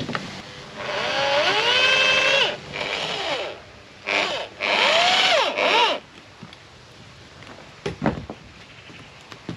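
Power drill running in two bursts, its whine rising in pitch as it speeds up and falling as it slows, followed by a couple of sharp knocks near the end.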